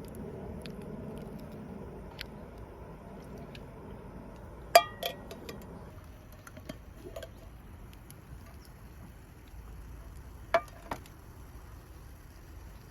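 Cookware and utensils clinking: two pairs of sharp, briefly ringing knocks, the loudest about five seconds in and another pair near the end, with a few faint ticks between them over a low steady background.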